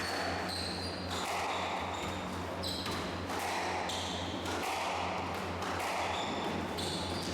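Squash rally: the ball being struck and hitting the court walls every second or two, with short high squeaks from shoes on the court floor. A steady low hum runs underneath.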